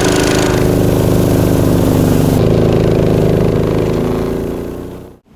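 Engine of a tracked motorized snow pusher running steadily under load while the machine is bogged in deep, loose snow, then winding down and stopping about five seconds in.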